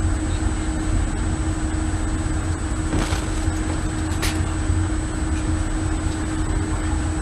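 Steady low rumble of a running engine or vehicle, with a constant hum over it.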